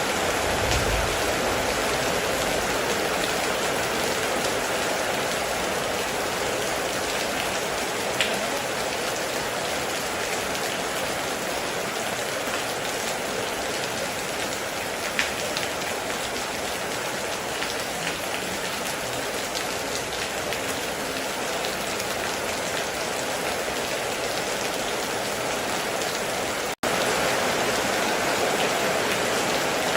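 Heavy rain falling steadily, a dense even hiss with a few louder single drop hits. The sound cuts out for an instant near the end, then carries on slightly louder.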